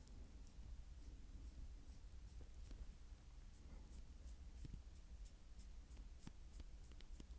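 Faint mouth sounds from licking right at a microphone: irregular sharp wet clicks, coming more often in the second half, over a steady low hum.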